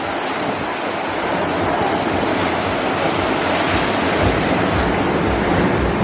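Steady rush of wind and sea water around a yacht, with wind buffeting the microphone in uneven low gusts.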